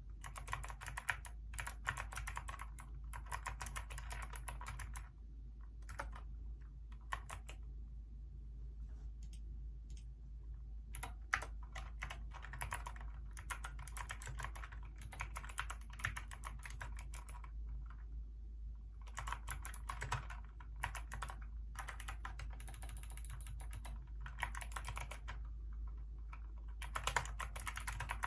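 Hacker K611 mechanical keyboard with Kailh optical switches being typed on: fast runs of key clacks, thinning to scattered single keystrokes a few times before picking up again.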